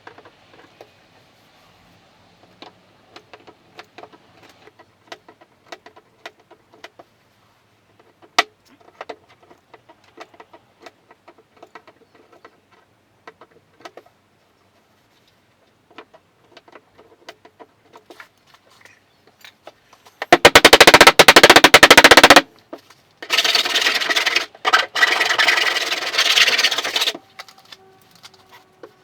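Scattered light taps of bodywork. Then a loud rapid rattling burst of about two seconds, and after a short pause a loud rough power-tool noise of about four seconds that stops and starts a few times.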